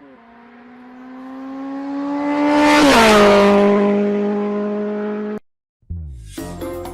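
A fast car's engine passing by: one steady engine note grows louder, drops in pitch as it passes about three seconds in, then fades and cuts off suddenly.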